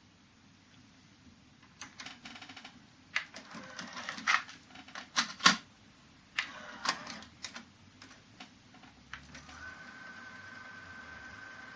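Sony TC-K222ESG cassette deck's mechanism clicking and clunking: a string of sharp clicks and knocks with a short rattle, the loudest about five and a half seconds in. After about ten seconds a single steady high tone sets in.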